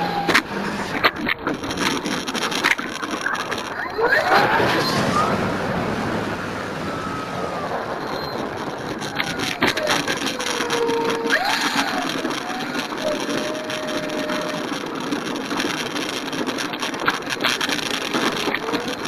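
FMS Cessna 182 RC model plane's motor and propeller whining in flight, the pitch sliding up and down several times as the throttle changes. Heavy wind noise and scattered clicks run underneath.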